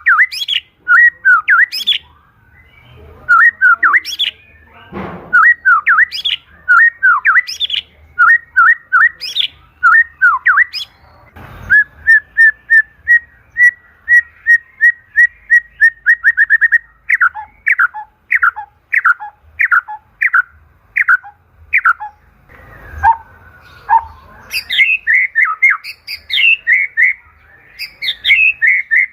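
White-rumped shama (murai batu) singing loudly: a long run of rich whistled phrases, a fast trill about halfway through, then a series of falling slurred whistles, and busier mixed phrases near the end.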